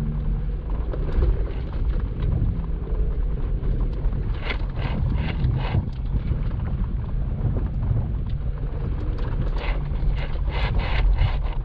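Jeep Wrangler Unlimited Rubicon driving slowly over a rough trail, its engine and drivetrain a steady low rumble. Two runs of rapid clattering knocks come through, one about four seconds in and one near the end, as the vehicle goes over rough ground.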